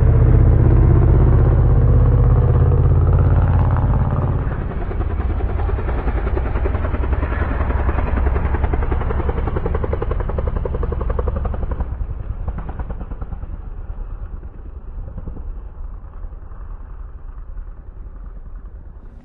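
Motorcycle engine running loud with a fast, even pulsing beat. It eases off after about twelve seconds and fades toward the end.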